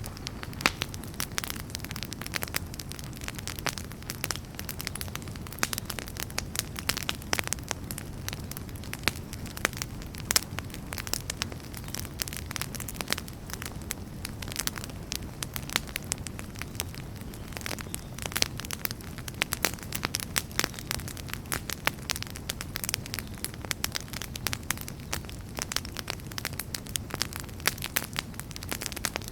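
Wood fire burning in a fireplace: a steady low rumble of the flames with frequent sharp crackles and pops from the logs.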